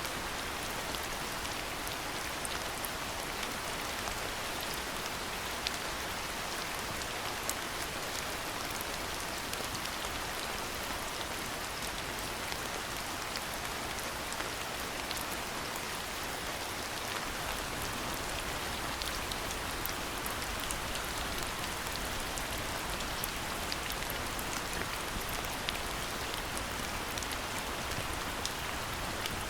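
Steady rainfall, an even hiss with scattered sharp ticks of individual drops striking nearby surfaces.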